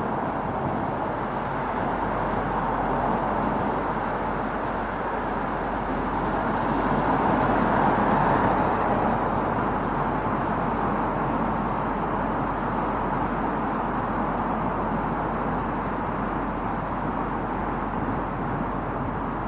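Steady rush of tyre and wind noise from a car driving on an expressway, heard from a camera mounted on the car's roof. The noise swells for a few seconds about halfway through, then settles back.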